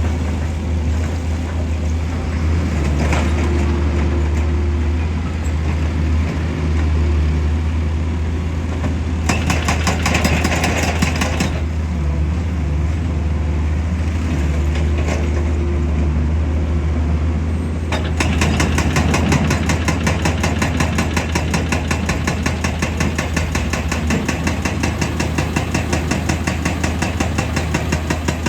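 Heavy diesel machinery running steadily under rough clatter. A fast, even pulsing clatter comes in briefly partway through and again for the last third.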